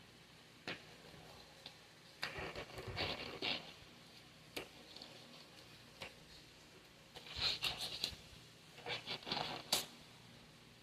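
Hands handling things at close range: short bursts of rustling and scraping, with a few sharp clicks in between.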